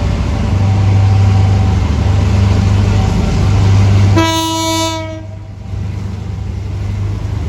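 CC 202 diesel-electric locomotive's engine running with a steady low drone, and one horn blast of about a second just past the middle.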